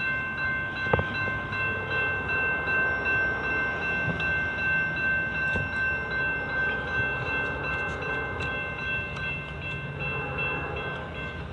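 A train going by. A steady, high ringing tone made of several pitches is held over the rumble and stops about ten seconds in, with a single sharp click about a second in.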